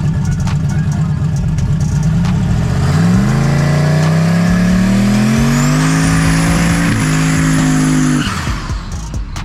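Drag racing car's engine rumbling at low revs, then accelerating hard from about three seconds in, its pitch climbing steadily with a brief dip near seven seconds and a high whine rising over it. The engine sound drops away suddenly a little after eight seconds.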